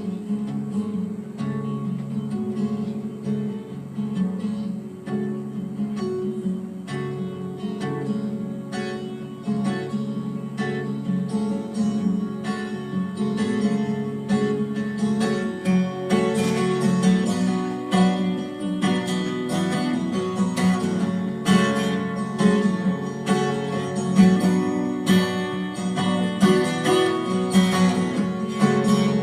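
Instrumental song intro on acoustic guitar, picked and strummed, growing fuller and brighter about halfway through.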